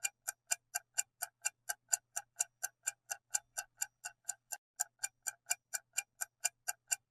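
Clock-ticking sound effect used as a quiz countdown timer: a steady run of sharp ticks, about four a second, marking the time given to pick an answer.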